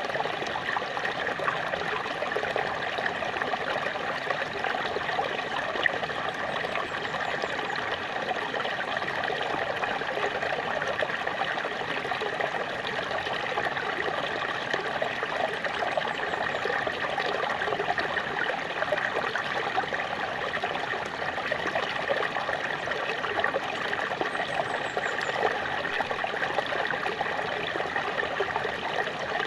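Small waterfall running steadily: an even, unbroken rush of falling water.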